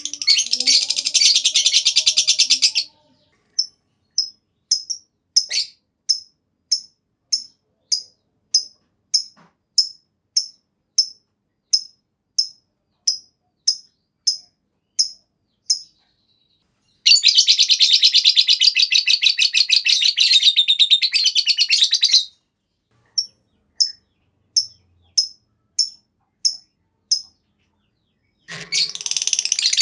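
Lovebird ngekek: long, rapid, high chattering trills of several seconds each, three times, with runs of single sharp chirps, about three every two seconds, in the gaps between them.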